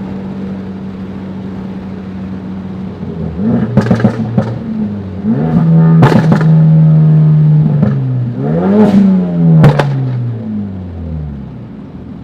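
Tuned Ford Focus RS's turbocharged 2.3-litre four-cylinder engine running steadily, then revving up and down several times, with a few sharp exhaust cracks as the revs rise and drop. The revs fall away near the end.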